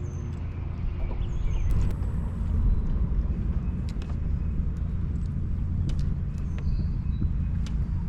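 Steady low rumble with a hum under it, scattered light clicks and taps, and a few short high squeaks, aboard a small fishing boat.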